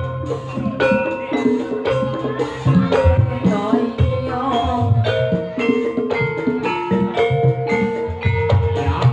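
Live ebeg dangdut kreasi ensemble music: drums and struck pitched instruments playing a steady rhythm over held melodic notes.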